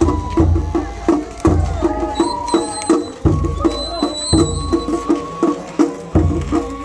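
Japanese festival float hayashi music: drums beating a steady quick rhythm under a sustained high flute melody.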